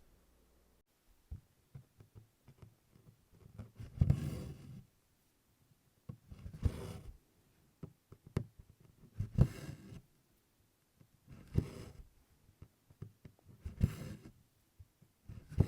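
A needle tapping through 24-count Congress cloth, then DMC cotton floss drawn through with a short rasp, repeated about every two and a half seconds while tent stitches are worked.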